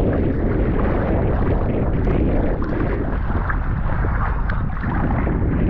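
Continuous rough rumbling of sea water and wind buffeting a waterproof action camera's microphone, with no clear rhythm.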